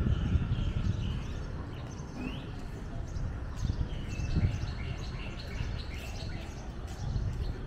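Small birds chirping in many short, high tweets, one rising call among them, over a low steady background rumble.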